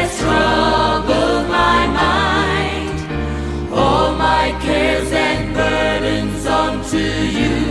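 Gospel worship song: voices singing long, wavering held notes over instrumental accompaniment with a steady low bass.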